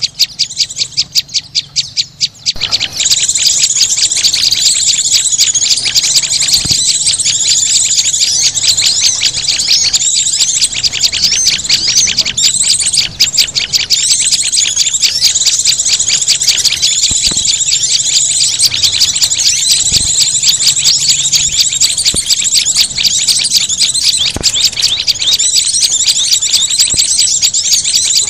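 A recorded bird-lure mix of small songbirds, such as white-eyes, prinias, sunbirds and flowerpeckers, chirping loudly. It opens with a rapid, even run of high ticking calls, about ten a second. About two and a half seconds in, a dense, continuous chorus of overlapping high chirps and trills takes over.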